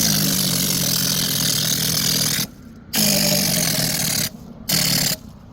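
A power tool running in bursts: one of about two and a half seconds, then one of just over a second, then a short one near the end.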